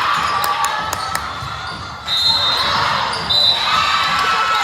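Spectators chattering in a gymnasium during a game, with several sharp thumps in the first second and two short high squeaks about two and three seconds in.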